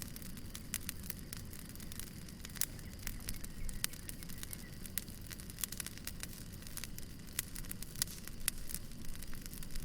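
Wood fire crackling: frequent sharp, irregular pops and snaps over a steady low rumble of the burning logs.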